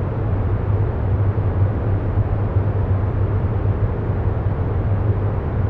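Steady low rumbling background noise, even throughout with no rhythm or changes, its weight in the low end.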